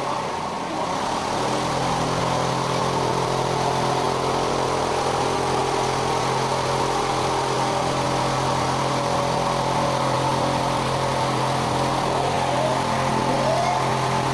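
Engine-driven machinery of an artificial rain rig running steadily, a constant engine drone under a hiss of falling spray.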